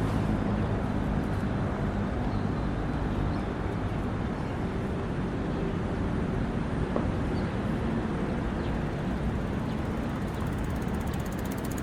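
An engine running steadily with a low hum under constant outdoor noise, slowly easing off.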